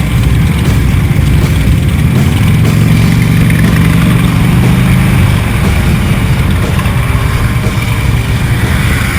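Motorcycle engine running while riding along a road. The engine holds a steady pitch for a few seconds in the middle.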